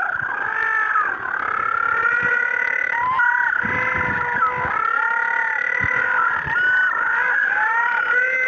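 A penguin colony calling: many penguins calling over one another at once in a continuous chorus of overlapping pitched calls.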